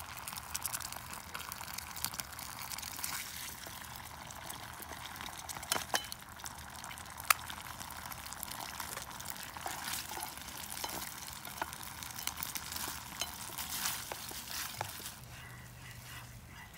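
Food frying in a pan over a wood fire: a steady sizzle with many small crackles, and one sharp tap about seven seconds in. The sizzle drops away about fifteen seconds in.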